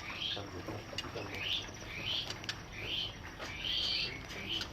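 Birds chirping: a short, rising call repeated about every half second to a second, against faint background noise.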